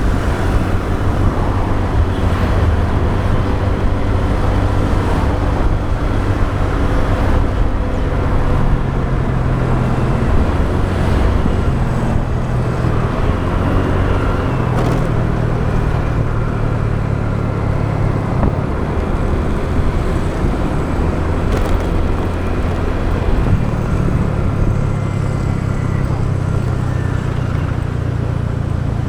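Motorbike engine running while riding along a road, its note shifting up and down a few times with the throttle, over steady wind and road noise.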